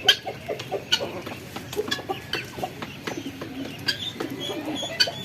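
A mix of aviary birds calling: pigeons cooing over and over, with frequent short, high, sharp calls from other birds.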